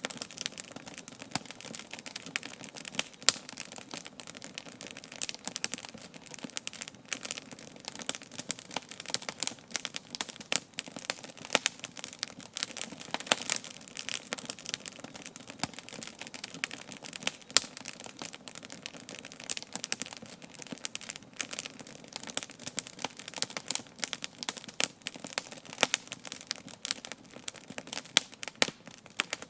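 Wood campfire crackling, with frequent sharp pops and snaps.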